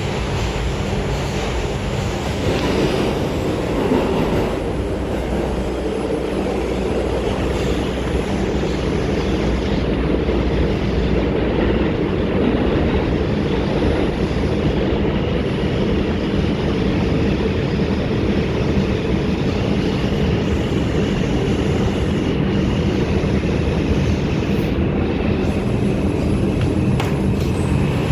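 R142 subway car running between stations, heard from inside the car: a steady rumble of wheels on rail with traction-motor and running noise. A faint high steady whine joins in during the later part.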